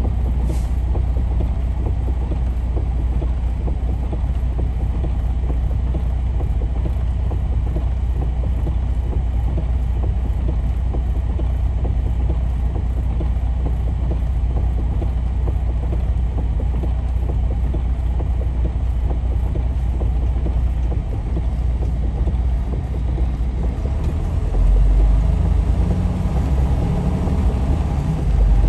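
Steady low rumble of a truck's engine and road noise heard from inside the cab while driving, growing louder and deeper about three-quarters of the way through.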